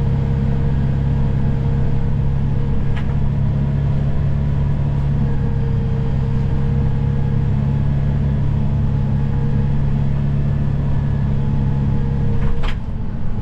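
Vehicle engine running at a steady speed, a low even drone. A sharp click about three seconds in and another near the end, after which the drone drops.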